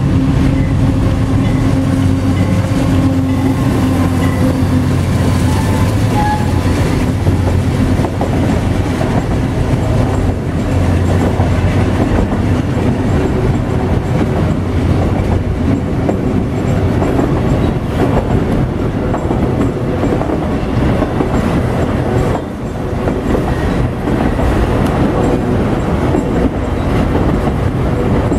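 GE Dash 8 (C40-8W) diesel locomotives running hard under load on a climb, their engine drone strongest for the first six or seven seconds as they pass. It then gives way to the steady rolling noise and clickety-clack of the autorack cars going by.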